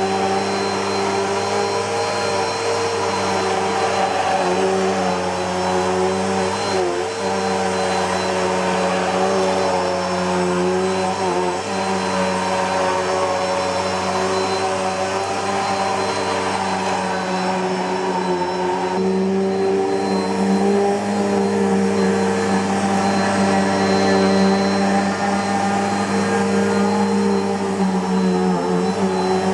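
Bissell PowerForce Helix Turbo bagless upright vacuum cleaner running continuously: a steady motor whine over a rush of airflow, its pitch dipping and wavering briefly a few times.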